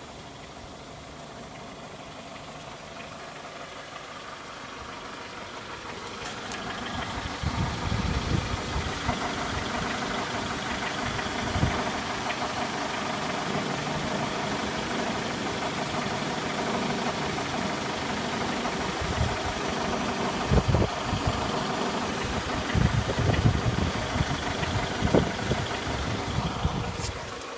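Vehicle engine running, getting louder about six seconds in. A few seconds later irregular low knocks begin, coming in clusters toward the end. They are knocks whose cause the owner cannot place.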